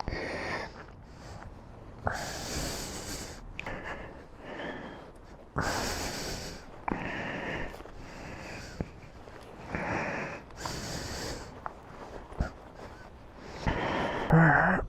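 A person breathing in and out, a loud, rushing breath every few seconds.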